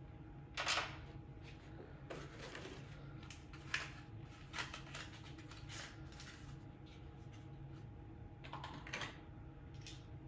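Hand tools and parts being handled during a spark plug change: a scatter of short clicks and light metallic clatter, loudest about half a second in and again near the end.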